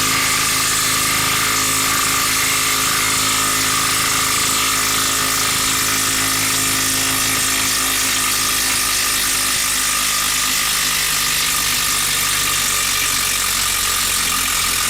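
Cordless impact wrench running without a break, its hammer mechanism impacting steadily on a tightly stuck fastener.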